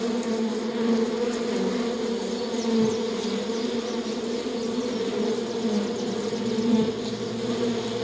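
Honeybees buzzing: the steady hum of a colony swarming over an open hive frame.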